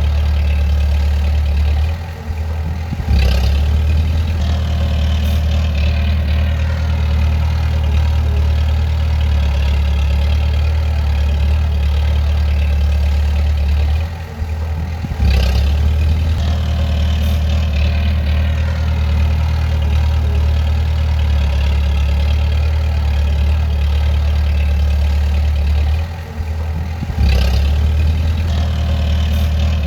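Bulldozer's heavy diesel engine running with a steady low drone. Three times, about twelve seconds apart, it dips for about a second, then picks up again with a sharp knock.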